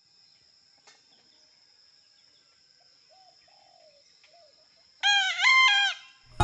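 A rooster crowing once, loud, about five seconds in, a single crow of about a second rising and falling in several segments. Before it, faint calls from further off.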